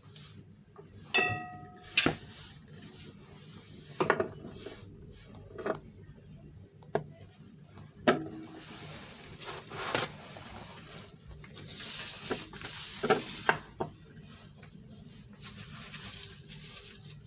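Bowls and utensils clinking and knocking while chicken pieces are dredged in flour and dipped in ice water, with one ringing clink about a second in and stretches of soft rustling.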